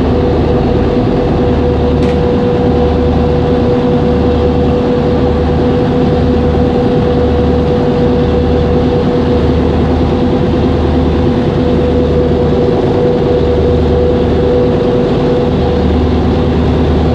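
A boat's engine running steadily under way: a loud, even drone with a low throb that pulses about once a second.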